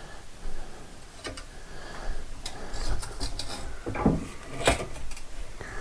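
Scattered knocks, scrapes and clinks of a steel masonry prop being handled and tightened against the ceiling, about a second apart, with the loudest knocks near the end.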